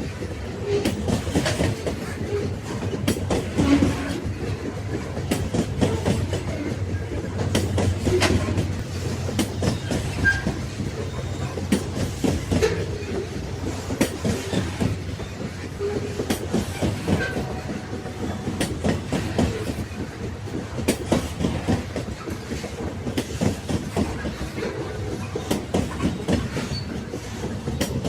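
Railway wagons rolling along the track: a steady low rumble with the clickety-clack of wheels knocking over rail joints, and now and then a short squeak.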